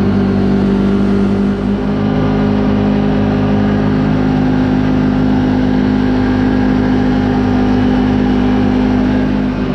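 Side-by-side UTV engine running at a steady speed while under way, with a slight change in engine note about two seconds in.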